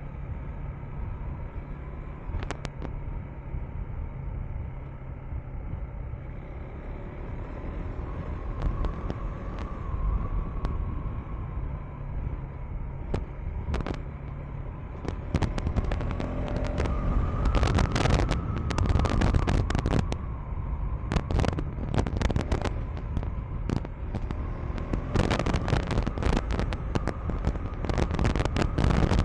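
KTM 390 Enduro R's single-cylinder engine running steadily under way. From about halfway in, a rapid crackle of sharp clicks and knocks builds over it, densest in two spells near the end.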